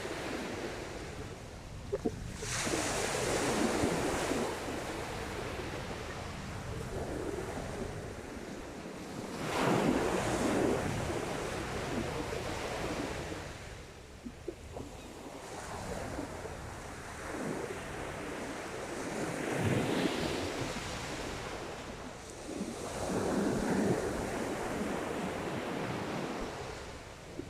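Sea waves breaking on the shore, a surge every few seconds washing in and drawing back, with wind on the microphone.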